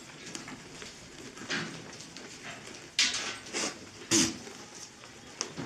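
Goats in a farm pen: a run of scattered short knocks and rustles, the loudest about three and four seconds in, the second with a brief low call.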